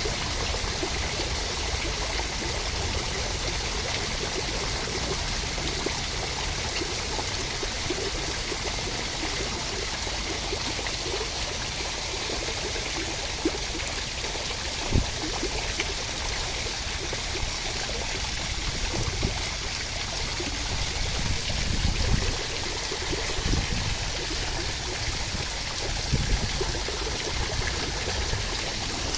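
Steady rain falling: an even hiss of water, with a few sharper drops standing out in the second half.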